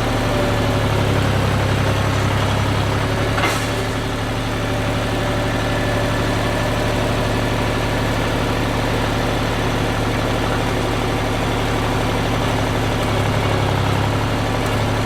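An engine idling steadily, with a single sharp knock about three and a half seconds in.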